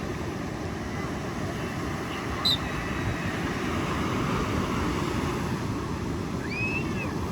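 Steady rushing noise of wind and surf on an open beach. A brief faint high chirp comes about two and a half seconds in, and a faint distant call near the end.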